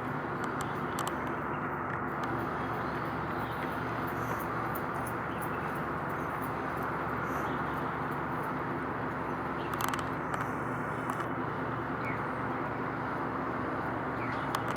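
Steady outdoor drone of engines and traffic, a constant low hum under an even rushing noise, with a few faint clicks and chirps.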